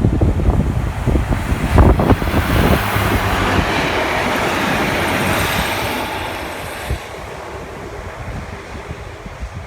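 Train passing along the line, a rushing rail noise that swells about two seconds in and fades after about six seconds. Wind buffets the microphone at the start.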